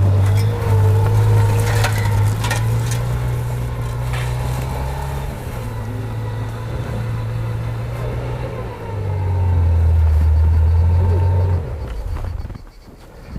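UAZ Patriot engine running hard under load as it climbs a snowy slope, a low drone that shifts in pitch partway through and swells again before dropping away near the end, with a few sharp knocks early on.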